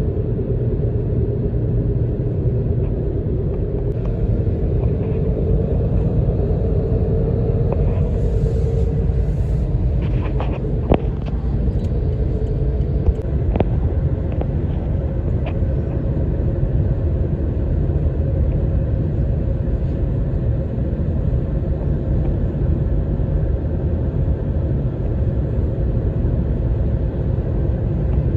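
Steady low rumble of highway road and traffic noise from moving vehicles, with a wavering hum in the first part and a couple of brief clicks partway through.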